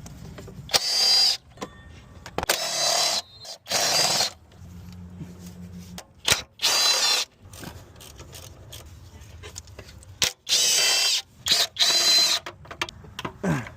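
Handheld power tool run in about six short bursts of under a second each, with a high whine, as fasteners are driven during a starter motor replacement.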